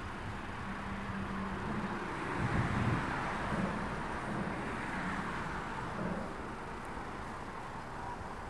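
Distant train running, a steady rumble with a low hum that swells about two and a half seconds in and again near five seconds.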